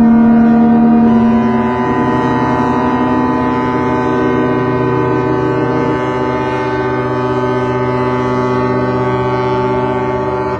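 Ship's horn sounding a long, loud, sustained blast of several tones at once. The pitches shift about a second in and again around six seconds in.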